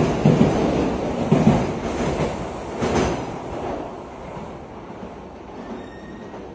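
Shinkansen bullet train running past on the station track: a loud rumble with a regular beat of thuds as the cars go by, fading steadily as the last car pulls away down the line.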